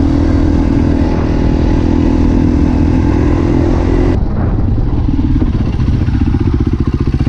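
Dirt bike engine running steadily at raised revs, then dropping suddenly about four seconds in to a lumpy idle with an even, pulsing beat.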